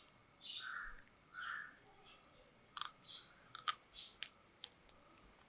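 A person biting into and chewing a roasted quail leg, faintly: two soft wet smacks early on, then a run of short sharp clicks and crunches of mouth and teeth.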